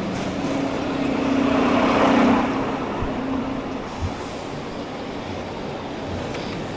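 City street traffic heard from a bicycle: a motor vehicle's engine drone swells to its loudest about two seconds in, then fades as it passes.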